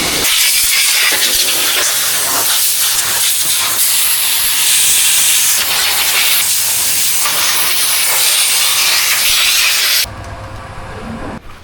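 Pressure washer spraying water in a loud, steady hiss that cuts off suddenly about ten seconds in.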